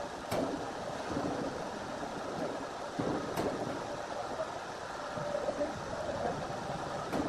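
Heavy wood-processing machinery running with a steady noisy hum, broken by three sharp clicks spaced a few seconds apart.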